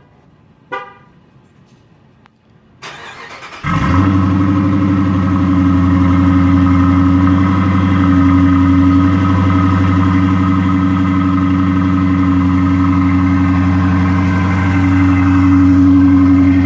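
A short car-horn chirp about a second in. Then the Dodge Charger R/T's 5.7-litre HEMI V8 with its mufflers deleted cranks briefly, fires about four seconds in, and settles into a loud, steady cold-start idle through the open exhaust.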